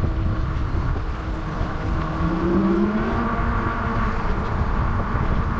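Wind and road noise rushing over the microphone of a moving bicycle, with the steady hum of a passing motor vehicle that dips slightly in pitch about halfway through.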